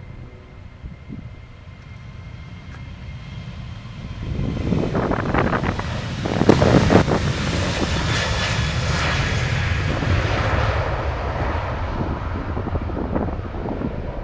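Boeing 737-800's CFM56-7B turbofan engines at takeoff thrust as the airliner passes by: the jet noise swells about four seconds in, is loudest through the middle, and fades near the end.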